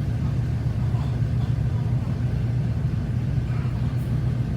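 Steady low drone of a large car ferry's engines and machinery heard inside the ship while under way.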